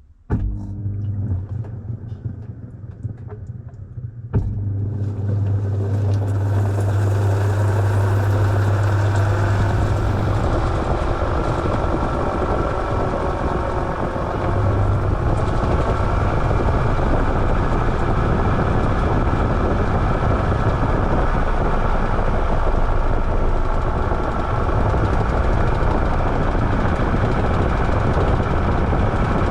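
Washing machine starting up: a low hum comes on suddenly, a sharp click sounds about four seconds in, and then a loud steady rushing run follows.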